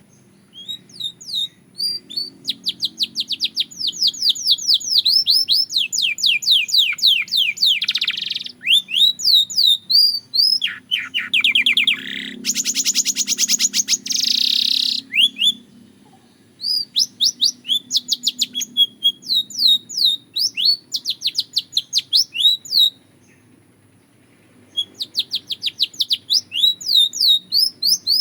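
Belgian canary singing: phrases of rapid, repeated high chirps and trills, each note a quick downward sweep. A very fast, dense roll comes about twelve seconds in, and the song breaks off briefly after about sixteen and twenty-three seconds before starting again.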